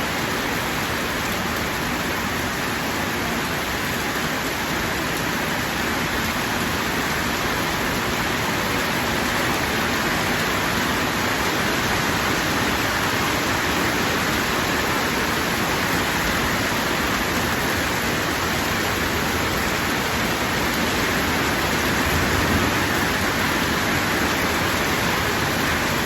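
Heavy rain falling steadily, a dense, even hiss of rain with no individual drops standing out.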